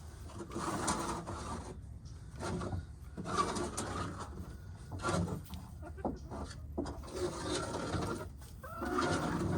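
Hens clucking in several spells, a second or two each with short gaps between.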